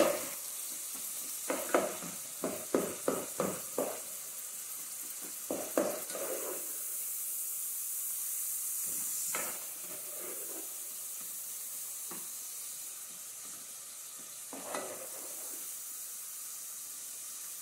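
Diced onion and sardines frying in oil in a nonstick pot, a steady sizzle. A plastic spatula scrapes and knocks against the pot in quick runs of stirring strokes, thickest in the first half and then only now and then.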